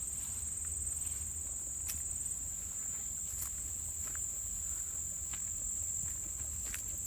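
Insects, such as crickets, trilling steadily at a high pitch, with a few scattered footsteps.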